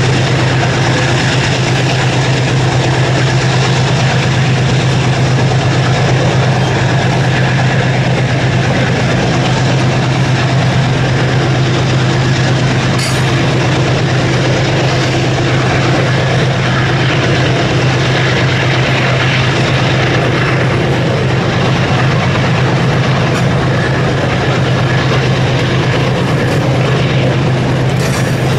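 Freight train running: a steady low diesel-locomotive drone over the continuous rolling noise of wagons on the rails.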